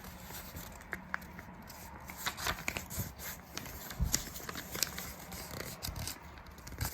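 A sheet of paper being folded and creased by hand: irregular rustling and crinkling with scattered small taps and clicks.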